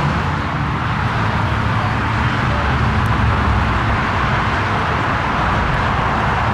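Steady jet engine noise from a Lufthansa Airbus A340-300's four CFM56 turbofans, a loud even rush over a low rumble.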